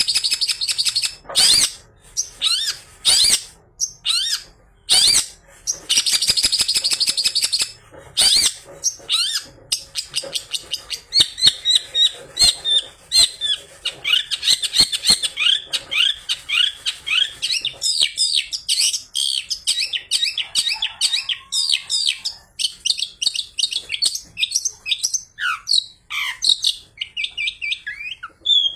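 Long-tailed shrike singing a fast, varied mimicking song: harsh rasping scolds over the first several seconds, then long runs of rapid chattering and sweeping high notes.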